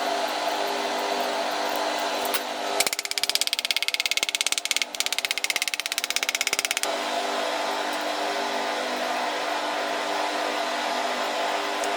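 A small electric motor runs with a steady hum and hiss. About three seconds in, a louder, rapidly pulsing rasp joins it for roughly four seconds, then stops.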